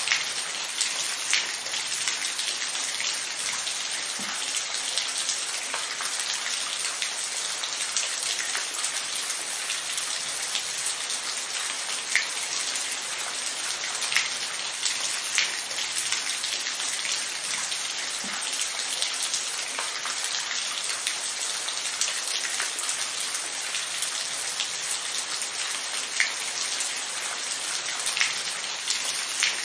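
Steady rainfall: an even hiss of rain with scattered sharper drops ticking on a surface.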